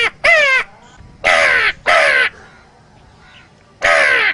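A man imitating a crow cawing: loud, harsh caws that fall in pitch, given in pairs.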